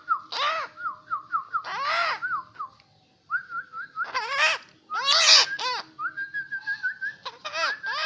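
A newly caught wild 'kaok-kaok' bird calling loudly: about seven harsh calls, each rising and then falling in pitch, several close together. Between the calls comes a quick run of short, high chirping notes, and later a higher whistled note. The bird is only a day in captivity and already calling.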